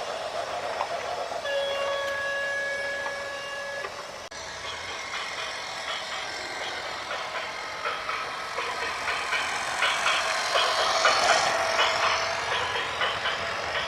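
A vehicle horn sounds one steady note for about two seconds. After a cut comes a busy mix of heavy-machinery noise and clatter, loudest about eleven seconds in.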